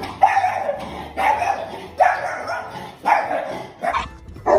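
A dog barking over and over, about one bark a second, the barks coming quicker near the end.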